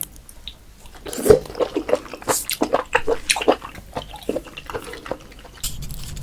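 Close-miked wet mouth sounds of a person eating raw oysters: irregular slurping and smacking that starts about a second in.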